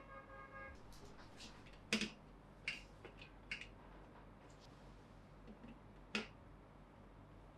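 Plastic Plarail toy track pieces and parts being handled and set in place: a few sharp clicks, the loudest about two seconds in and another near the end, after a brief high tone at the start.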